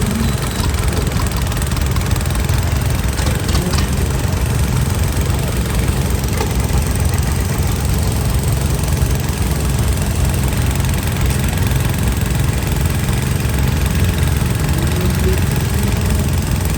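An engine running steadily and loudly at close range, its sound strongest in the low end.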